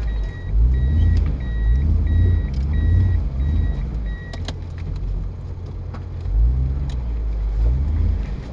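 Vehicle engine running and revving unevenly as it works at low speed over rough ground. A reversing beeper sounds over it, repeating about twice a second, and stops about halfway through. A few sharp knocks come later.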